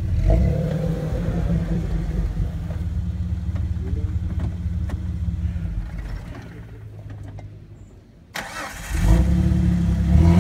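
Jeep Wrangler engine running steadily while the vehicle works through deep snow; the sound fades low for a couple of seconds, then comes back loud suddenly about eight seconds in.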